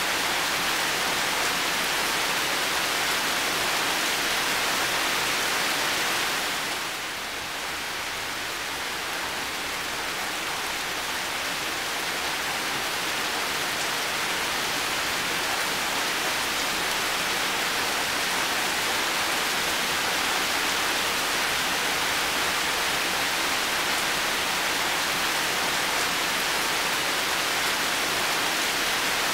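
Heavy rain falling steadily in a garden, an even hiss of drops. It dips slightly about seven seconds in, then builds back.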